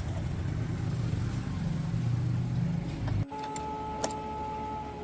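An engine running steadily with a low hum, stopping abruptly about three seconds in. A faint steady whine and a click follow.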